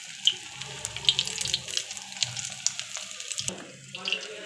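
Egg and onion omelette batter frying in hot oil in a pan: a steady sizzle with frequent sharp crackles. A steel spoon spreads the batter in the pan at the start.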